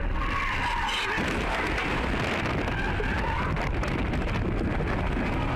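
Steady heavy rain on a car, a dense hiss full of small patters, starting abruptly.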